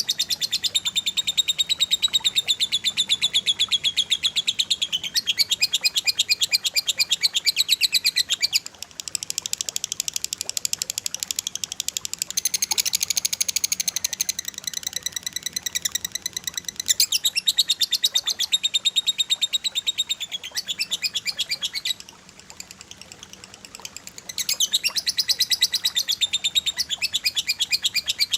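Cililin and lovebird song: long phrases of very rapid, tightly packed high-pitched chirps, the rapid-fire 'tembakan rapat' delivery, with brief lulls about eight seconds in and again about twenty-two seconds in.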